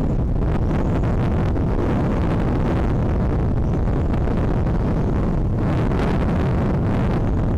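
Steady wind rumbling on an outdoor microphone, a dense low roar that doesn't let up.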